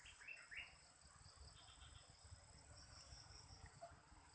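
Crickets trilling in a steady, high-pitched, finely pulsing chorus, with a few short rising chirps near the start.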